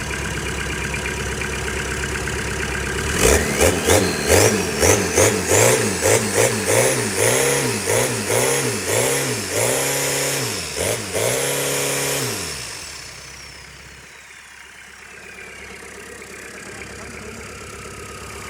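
Toyota Surf's 2L turbodiesel idling, then blipped hard and repeatedly, about two revs a second, for some nine seconds, with a turbo whistle climbing as it spools. When the throttle is released, the turbo whine falls away slowly while the engine settles back to a quiet idle.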